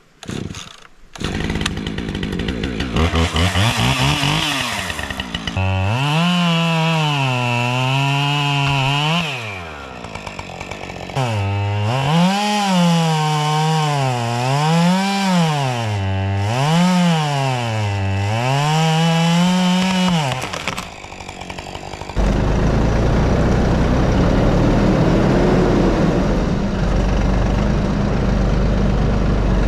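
Gas chainsaw cutting through a fallen tree, its engine pitch rising and falling again and again as the chain loads up in the wood, dropping back twice to a lower running note between cuts. About two-thirds of the way through, a deeper, steady engine sound takes over.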